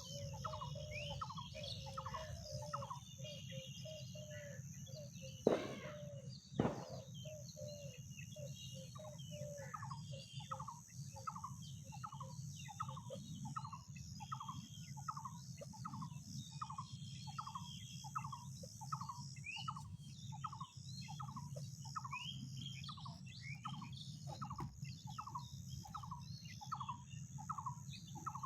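A bird repeating a short call over and over, about twice a second, with other birds chirping higher and fainter. Two sharp knocks sound about six seconds in, over a steady low rumble.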